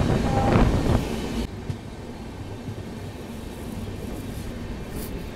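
Passenger express train running along the track, a steady rumbling noise heard from inside the coach. A louder rushing noise in the first second and a half cuts off suddenly.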